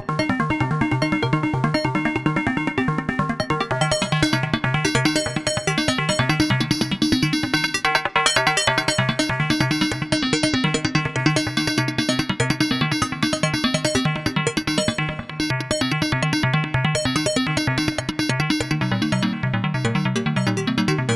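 Eurorack modular synthesizer playing a fast sequence of short, plucky notes: a Braids-style macro oscillator, volume-shaped by envelope, through a Mimeophon delay.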